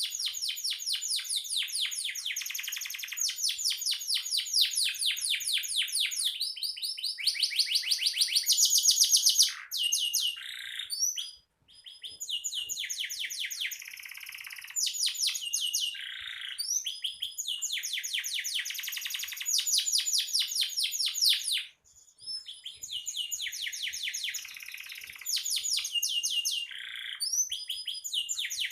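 Domestic canary singing energetically (gacor): long phrases of rapid trills of quickly repeated notes, broken off briefly twice.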